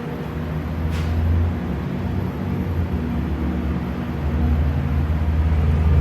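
Haas TL-2 CNC lathe running under power: a steady low machine hum that swells slightly at times, with a single sharp click about a second in.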